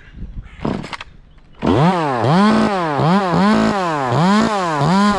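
Two-stroke chainsaw starting up about a second and a half in, then revved in quick repeated throttle blips, about six rises and falls in pitch.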